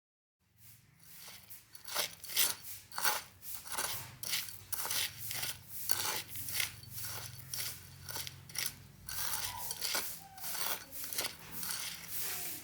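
Small hand tool scraping and tapping against a hard surface in a run of short, sharp strokes, about two a second, as when mixing or spreading miniature concrete, over a faint steady hum.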